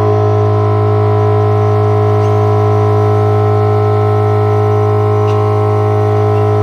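Industrial blower running unsilenced, a loud steady hum with a strong low drone and several higher whining tones above it, holding a constant pitch.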